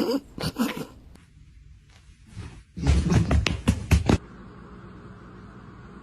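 A pet animal calling in a few short pitched cries in the first second, then a dense run of loud knocks and scuffles about three seconds in.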